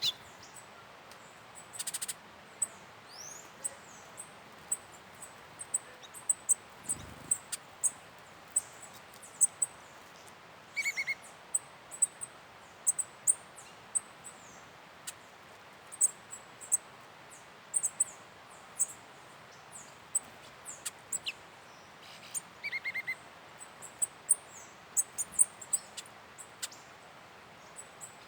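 Small forest birds calling: many short, high chirps scattered throughout, with a quick stuttering run of notes twice, about a third of the way in and again near the end.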